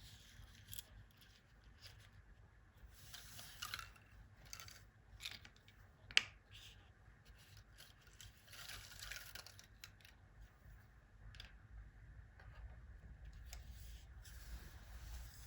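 Faint, scattered handling noises: short scrapes and clicks, with one sharp click about six seconds in.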